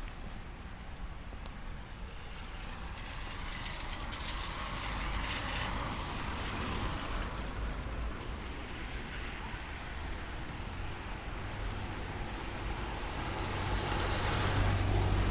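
Street traffic on a rain-wet road: vehicles passing with a hiss of wet tyres over a low engine rumble, one passing loudest near the end.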